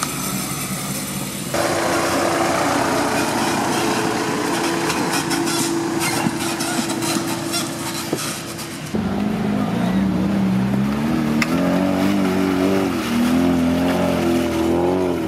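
Suzuki Samurai 4x4 engines working off-road. A steady, strained engine drone gives way abruptly, about nine seconds in, to an engine revving up and down again and again as it climbs.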